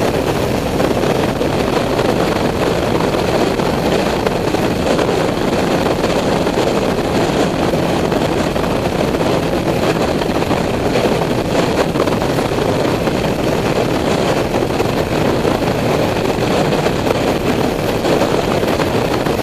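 Motorcycle riding at steady speed: an unbroken rush of engine and wind noise.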